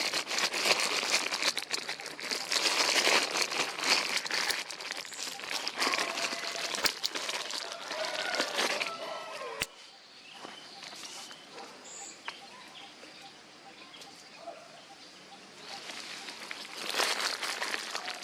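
Dense rustling and crackling that stops abruptly about nine and a half seconds in, with a few faint short pitched calls in its later part; after a quieter stretch the rustling starts again near the end.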